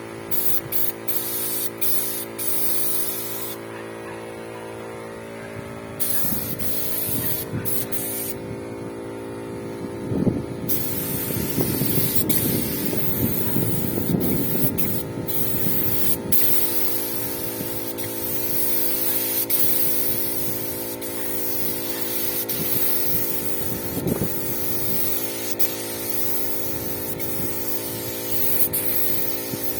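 Paint spray gun hissing in long passes, cutting out twice in the first ten seconds, over the steady hum of a motor.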